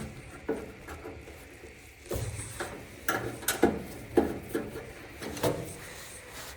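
Irregular clicks, knocks and rubbing of hard parts being handled during work on a dryer, the sharpest knock a little past the middle.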